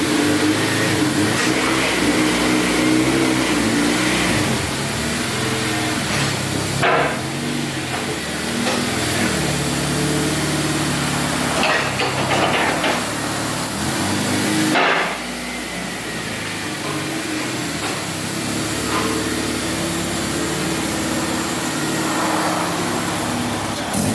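Acura Integra's engine running through a freshly fitted Vibrant muffler, its pitch stepping up and down as the throttle is worked. A few brief sharp noises cut through it, about a third of the way in and again just past halfway, after which it settles a little quieter.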